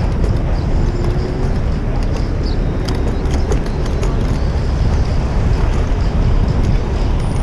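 Wind buffeting a GoPro's microphone during a bicycle ride, heard as a steady low rumble over city street traffic, with a few light clicks around the middle.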